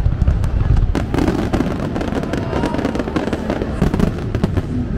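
Fireworks going off: rapid sharp cracks over a steady low rumble of bursts, with a thick cluster of crackles about four seconds in.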